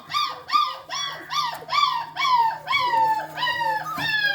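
A puppy whining in a fast run of high yelps, about three a second, the calls growing longer and sliding down in pitch toward the end.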